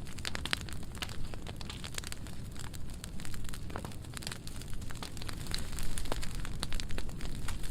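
Burn pile of dry pruning wood burning: many sharp crackles and pops over a steady low rush of flames, growing louder about six seconds in.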